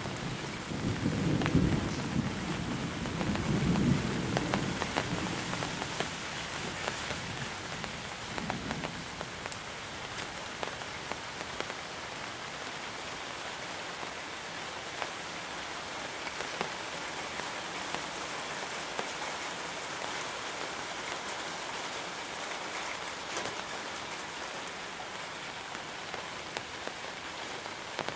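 Monsoon rain falling steadily, with a low roll of thunder in the first several seconds that fades out about nine seconds in. Scattered drips tick through the rain.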